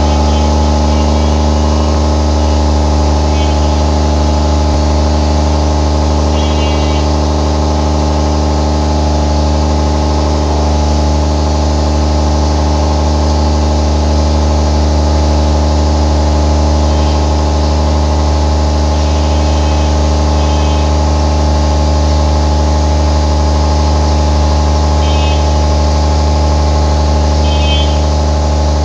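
Generator engine running steadily at constant speed: a loud, even drone with several steady tones above it and no change in pitch.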